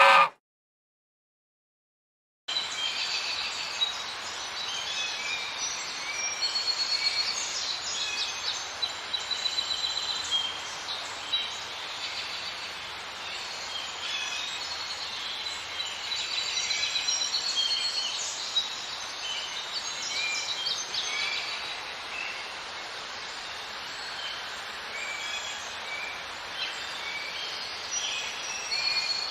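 Small songbirds chirping and twittering over a steady outdoor background hiss, starting about two and a half seconds in after a brief silence.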